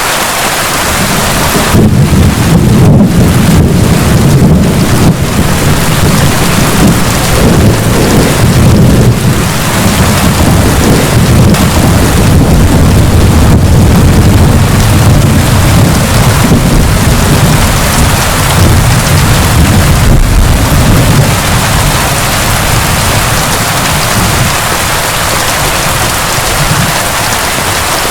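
Heavy steady rain with a long, deep rolling rumble of thunder. The thunder builds about a second in, rolls on for some twenty seconds and fades away, leaving the rain alone.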